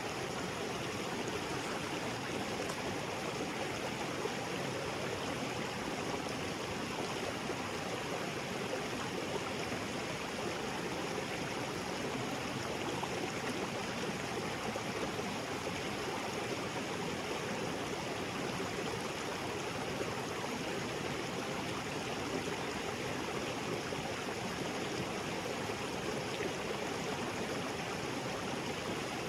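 Small waterfall and creek flowing steadily over rocks, an even rushing splash with no change in level.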